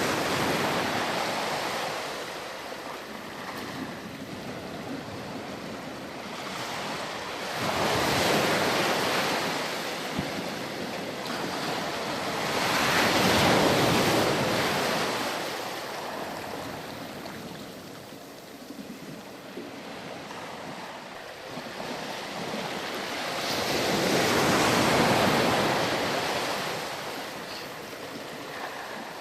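Sea waves breaking on a sandy beach, the surf swelling and receding in slow surges about four times, each a rushing hiss that builds, peaks and draws back. A light wind sits underneath.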